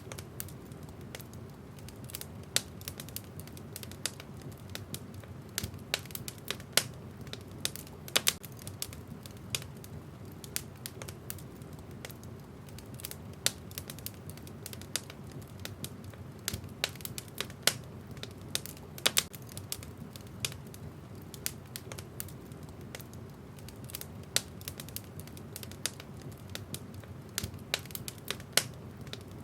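Wood fire burning in a fireplace: a steady low rumble of flames with irregular crackles and sharp pops from the burning logs, a few of them much louder than the rest.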